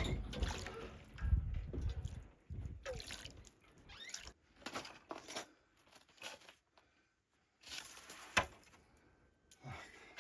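Water sloshing and splashing in irregular bursts, with a sharp knock about eight seconds in.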